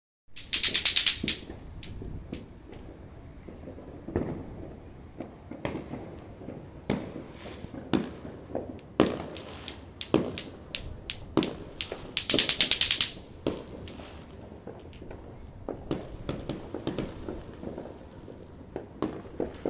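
New Year's fireworks going off: scattered bangs and pops, with two longer loud crackling bursts, one about a second in and one around twelve seconds in.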